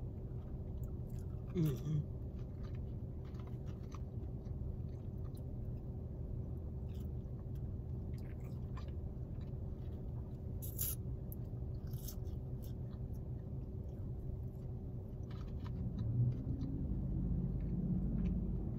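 Close-up chewing and wet mouth clicks of someone eating french fries, over a steady low hum inside a car.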